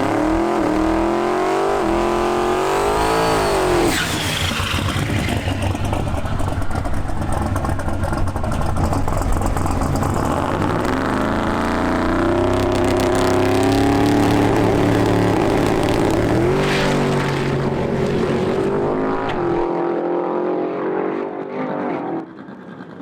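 Twin-turbo big-block Chevy V8 in a 1956 Chevy drag car on a full-throttle pass. The engine pitch climbs, drops at a gear change about four seconds in, climbs again, and drops at a second shift around seventeen seconds. Near the end the sound falls away as the driver lifts off, because the car has started to unload and bounce after the shift to third.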